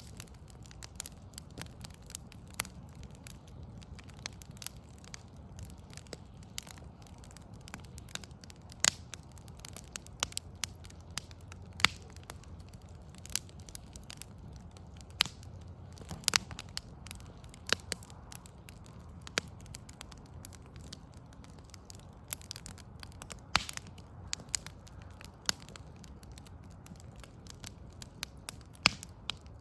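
Outdoor wood fire of burning logs crackling, with irregular sharp pops, a few of them much louder, over a steady low background rumble.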